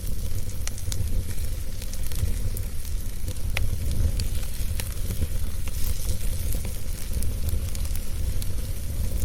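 Wood fire burning with a steady low rumble and scattered sharp pops and crackles, one pop louder about three and a half seconds in.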